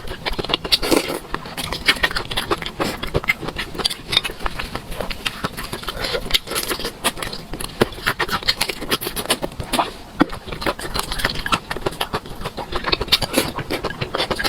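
Eating sounds close to the microphone: rapid, irregular chewing and wet mouth clicks, several a second.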